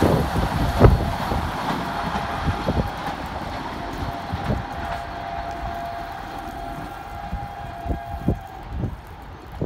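Vande Bharat Express electric multiple-unit train running away at speed, its rumble fading as it recedes. A long steady tone is held from about a second in until near the end, with scattered short thumps throughout.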